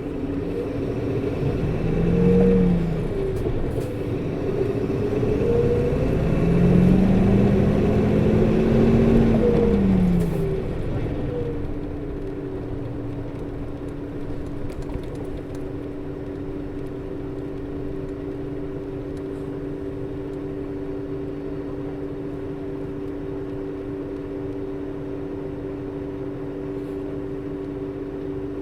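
Nissan Diesel Space Runner RA city bus's diesel engine pulling away, its pitch rising and falling through gear changes, then easing off about eleven seconds in. A steady two-tone whine from the engine's coupling (viscous) fan runs throughout and is left on its own once the engine eases off; this bus's fan runs all the time and sounds high for the engine speed.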